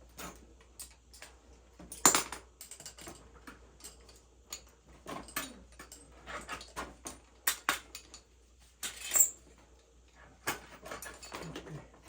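Scattered clinks and knocks of hand tools and metal oil-burner parts being handled, as the burner is taken apart to get at the nozzle.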